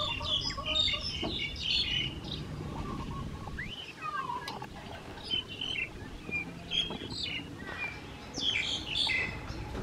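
Small birds chirping in clusters of quick high calls, a few times over, with one falling call about four seconds in, over low background noise.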